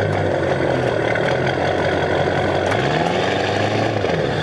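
Engine of the vehicle pulling a stuck van running under load. It revs up a little under three seconds in and drops back near the end as the driver makes another attempt to drag the van free.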